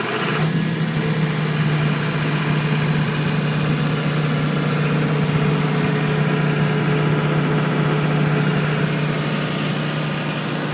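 John Deere turbocharged diesel engine of a 45 kW standby generator, brought up from low idle to its 1,800 RPM generating speed. About half a second in, a strong steady hum comes in and the sound grows louder, then it runs evenly at speed.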